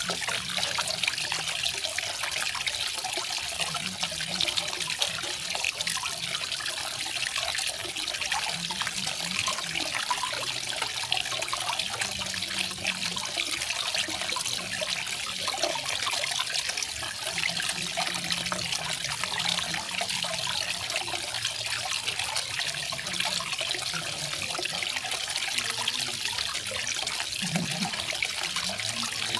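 Garden waterfall: water falling and splashing in a steady, unbroken rush, with most of its hiss in the high range.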